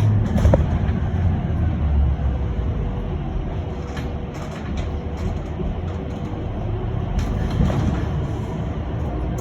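Steady running noise of an electric bus in motion, heard from inside: a low rumble of road and tyres with a faint steady whine.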